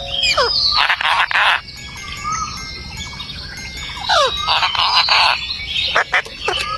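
Pet parrot calling: several sharp downward-sliding whistles and two harsh screeches, one about a second in and another about four seconds in.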